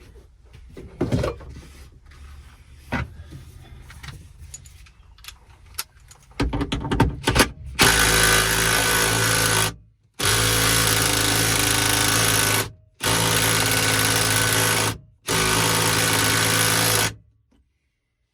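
Cordless impact wrench run in four loud bursts of about two seconds each, with brief pauses between, working at a tight seat-belt bolt. Before it come light clicks and knocks of tools being handled.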